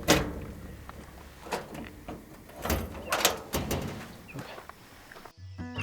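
A door or lid being handled: a string of separate knocks and clunks, each with a short ring. Music starts suddenly near the end.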